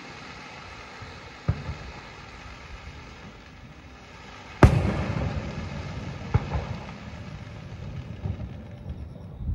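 Distant aerial firework shells bursting: a faint bang about a second and a half in, then a loud boom a little past the middle that rumbles on and echoes, and a smaller bang over a second later.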